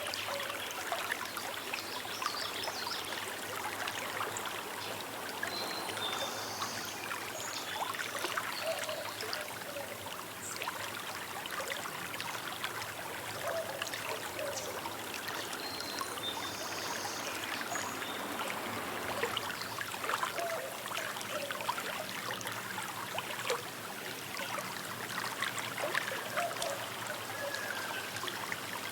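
Small river babbling and trickling over stones, a steady flow of water full of little splashes and gurgles.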